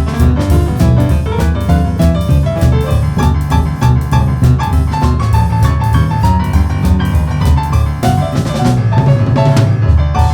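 Live boogie-woogie trio playing: piano with a driving, repeating left-hand bass figure and fast right-hand runs over a steady drum-kit beat.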